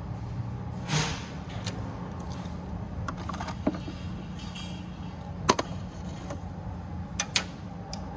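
Scattered metallic clicks, clinks and knocks of tools and parts being handled during work on a car, over a steady low hum. The sharpest knocks come about a second in, midway, and as a pair near the end.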